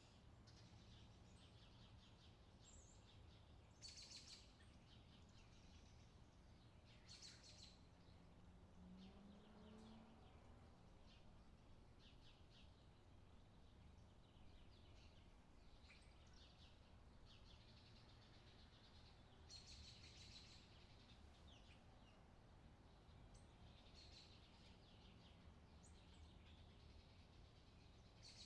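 Faint outdoor summer ambience: scattered bird chirps, a few stronger than the rest, over a steady low background hum.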